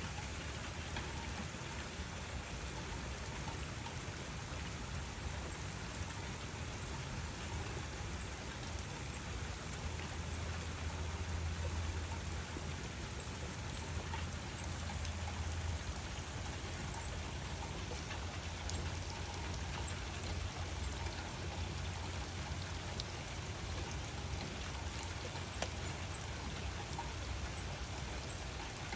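Steady rainfall with scattered drop ticks, over a low rumble that swells a little about a third of the way in.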